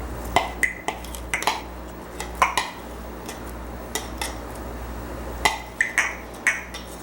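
A spoon clinking and scraping against a bowl in irregular sharp taps, some briefly ringing, as garlic is measured out and knocked off the spoon.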